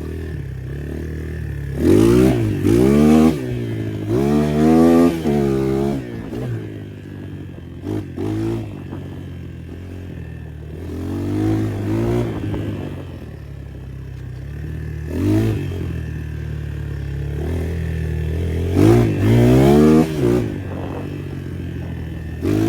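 250 cc motocross bike engines running, with about five loud bursts of revving whose pitch rises and falls over a steady lower engine hum.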